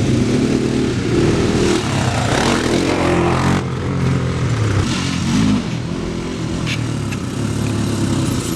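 Off-road vehicle engine running and revving while ridden. The revs climb about two seconds in and cut off sharply just before the middle, then settle into steadier, lower running after a short blip.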